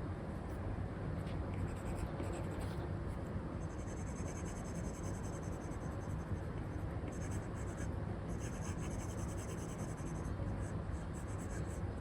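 Stylus nib scratching across a paper-like screen protector on an iPad, in runs of short drawing strokes that come and go, over a steady low background noise.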